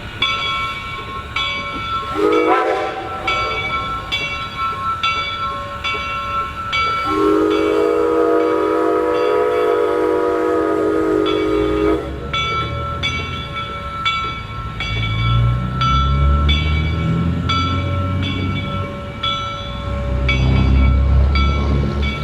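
Steam locomotive 425 sounding its chime whistle, a short blast about two seconds in, then a long blast of about five seconds, over a bell ringing about twice a second. In the second half a low heavy rumble of the locomotive working builds up.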